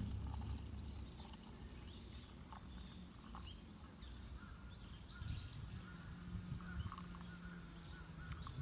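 Faint outdoor ambience with scattered short bird chirps and a low steady hum.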